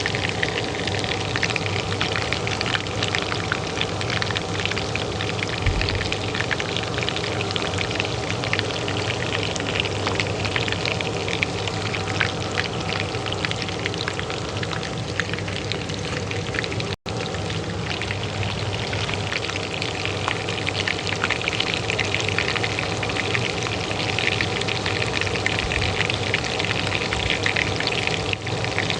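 Hot oil frying in a pan, a dense, steady crackle and sizzle, over the steady hum of a kitchen range hood fan. The sound cuts out for an instant about two-thirds of the way through.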